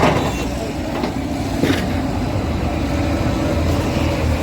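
A heavy engine running steadily with a low rumble, broken by a few sharp knocks: one at the start, one about a second in, and one a little later.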